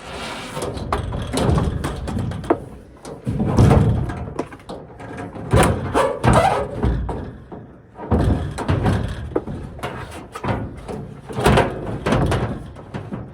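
Irregular clunks, bangs and scraping from handling at an aluminium underbody truck box, with a run of sharp knocks among longer rustling and scraping noises.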